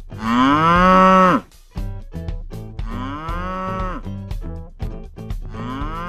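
Electronic cow mooing from a battery-operated toy cow, three moos, the first and loudest about a second long, the last starting near the end.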